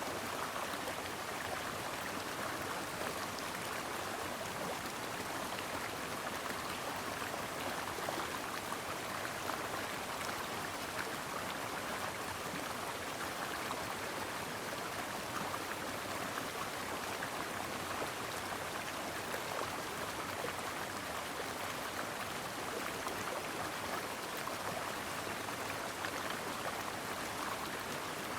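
Brook water flowing, a steady, even rush with no breaks or changes.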